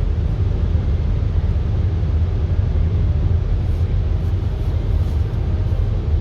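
Steady low rumble of a car driving through a road tunnel, heard inside the cabin: engine and tyre noise with no breaks or sudden events.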